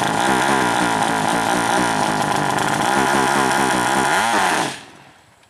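A 200cc racing motorcycle engine revved hard at high rpm, its pitch rising again and again several times a second, then fading out near the end.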